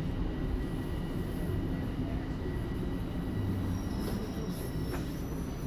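Toronto subway Line 1 train running with a steady low rumble as it pulls into a station, with thin high squeals from the wheels and brakes. A single sharp click about five seconds in.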